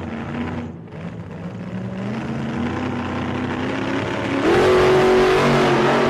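Motor vehicle engine running and revving. Its pitch steps up, then climbs sharply and gets louder about four and a half seconds in, holding at the higher revs.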